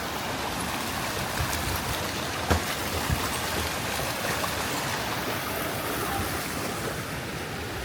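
Steady rush of river water spilling over falls and cascades, an even hiss with no break. Two brief low knocks stand out about two and a half and three seconds in.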